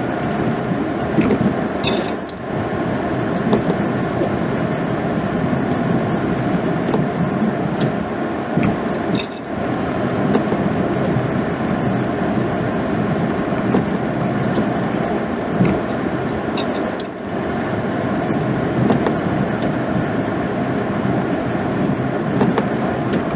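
A 2016 GMC Sierra pickup running steadily while plowing snow, a continuous rumble with three brief dips.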